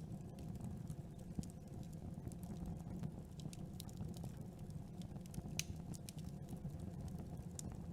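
Campfire burning: a steady low rumble of flame with irregular sharp crackles and pops from the burning wood, one louder snap about five and a half seconds in.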